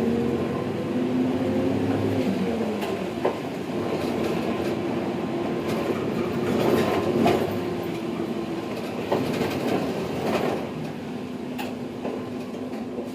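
Mitsubishi Fuso Aerostar city bus driving, heard from inside the cabin. The engine note rises for about two seconds and then drops. The engine then runs steadily while the body gives scattered knocks and rattles over the road.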